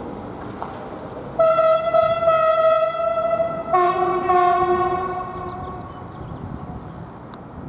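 Train horn sounding two long blasts. The second blast follows straight on from the first and sounds a different, fuller chord, then fades out.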